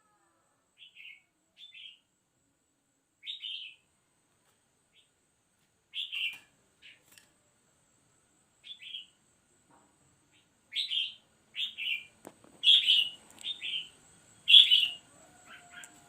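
Loan phượng bird giving short chirping calls, a few sparse notes at first, then coming quicker and louder in the last several seconds.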